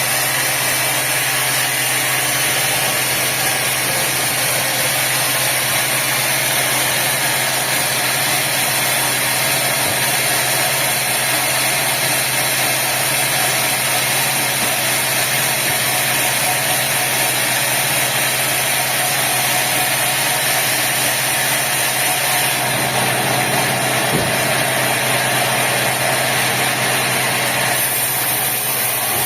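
Sawmill machinery running steadily: a continuous mechanical drone with a strong hiss, its character shifting slightly about two-thirds of the way through and again near the end.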